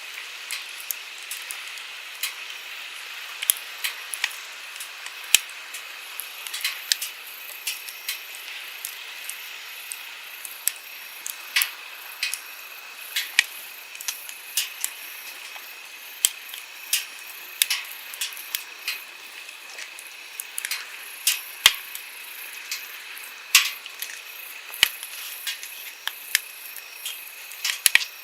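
Wood campfire crackling, with irregular sharp pops and snaps several times a second, over the steady rushing of a stream.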